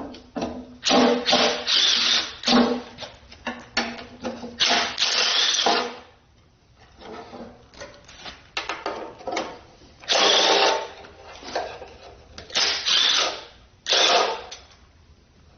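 A power tool run in repeated short bursts of about half a second to a second, with a quieter gap partway through, while the short block is being taken apart.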